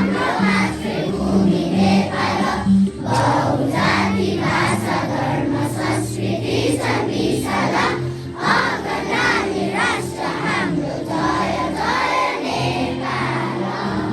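A group of children singing together along with recorded music, with steady held low notes of the accompaniment under the voices.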